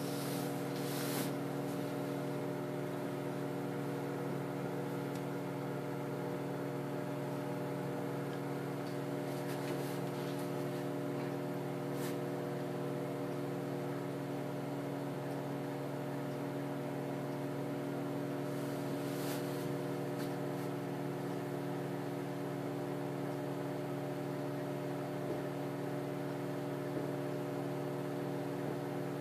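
Microwave oven running with a steady electrical hum while heating a paper bag of popcorn kernels, with a few faint clicks here and there.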